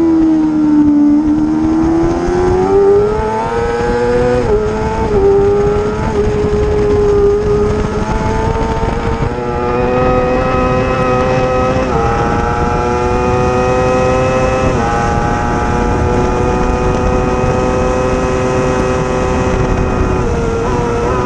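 Racing motorcycle engine at full song through a lap. Its pitch falls in the first second as it slows, climbs again with quick gear changes about four and five seconds in, then holds high, with further shifts near twelve and fifteen seconds. A steady rush of wind lies under it.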